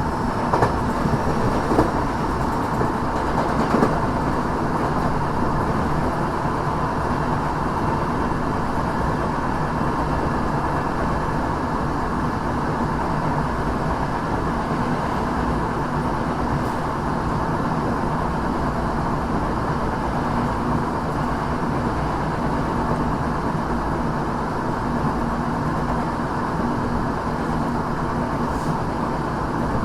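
Tokyo Metro 6000 series electric train with Mitsubishi IGBT-VVVF drive running between stations, heard inside the passenger car: a steady rumble of wheels on rail with a faint hum. A few sharp knocks from the rails come in the first few seconds.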